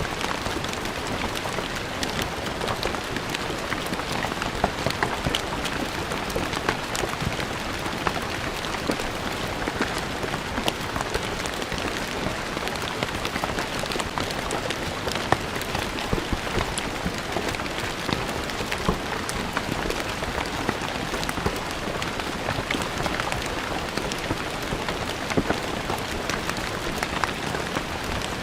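Steady rain falling on stone paving, a dense even hiss dotted with the sharp taps of individual drops.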